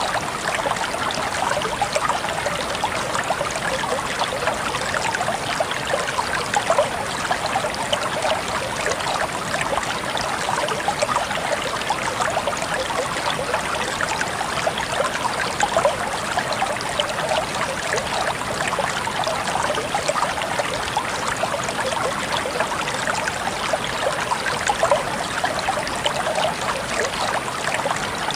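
Clear shallow stream trickling and babbling steadily over and between rocks, with constant small splashes and gurgles.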